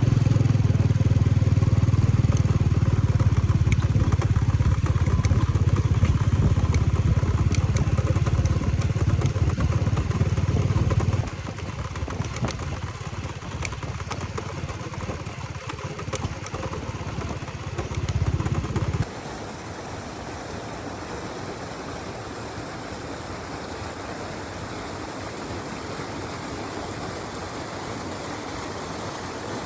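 Motorcycle engine running as the bike is ridden, loud for about the first third, quieter for a while, then briefly loud again. About two-thirds of the way through it cuts suddenly to a steady, even hiss.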